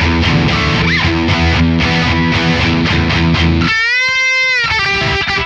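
Electric guitar played through a distorted Mesa Boogie Mark IIC+ amp model: a dense low riff with steady picking. About two-thirds of the way in it gives way to a single held higher note with vibrato, then another sustained note.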